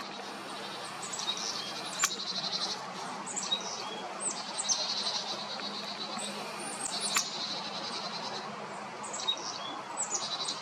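Chickadees calling repeatedly: short high notes that fall in pitch, each run followed by a string of buzzy, lower notes. Two sharp clicks come through, about two seconds in and again about seven seconds in.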